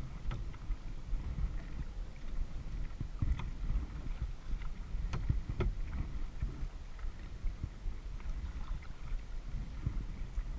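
Kayak being paddled on a lake: a steady low rumble of water and wind against the mounted camera, with a few light splashes and clicks from the paddle.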